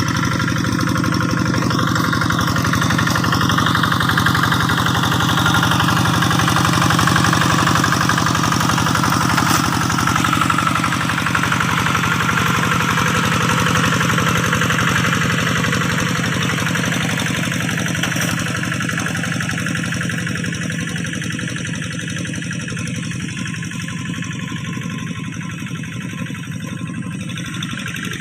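Kubota diesel engine of a rice-field plough (hand tractor) running steadily, easing slightly in level in the second half.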